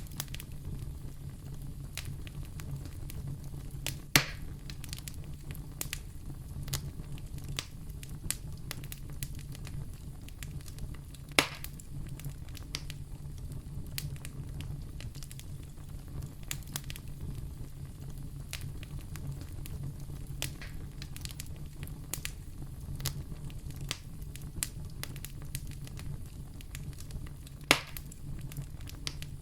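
Wood fire burning in a fireplace: a steady low rumble of flames with many small crackles and three louder pops, about four seconds in, about eleven seconds in and near the end.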